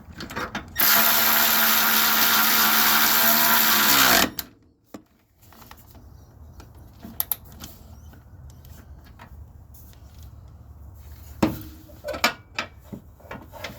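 Power tool run steadily for about three seconds, tightening an engine mount bolt, then winding down. A few light tool clicks follow.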